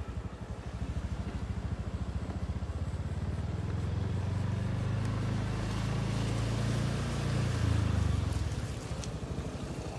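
Motorcycle engine running under way, a low, fast-pulsing exhaust note that swells louder through the middle and eases off about eight and a half seconds in.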